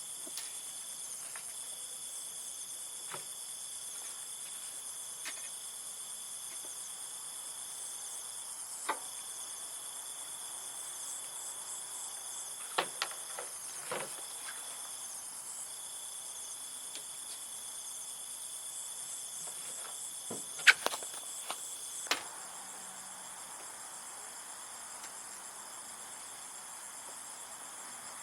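Steady, high-pitched chorus of insects such as crickets, with a few sharp clicks and knocks scattered through it, the loudest a cluster about two-thirds of the way in.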